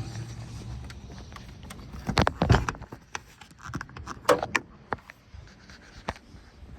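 Metallic clunks and clicks as a 2014 Chevrolet Silverado's hood is unlatched and lifted: a loud cluster of knocks about two seconds in, then smaller rattles and clicks around four seconds, over the truck's engine idling low underneath.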